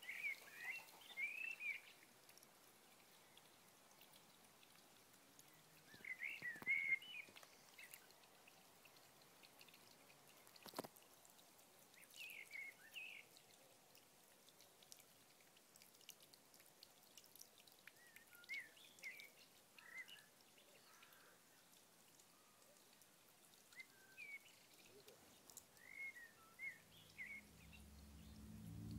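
Faint short chirping phrases from a small bird, each a quick cluster of high chirps, coming back about every six seconds over a quiet background. A single click sounds about eleven seconds in, and low sustained music tones fade in near the end.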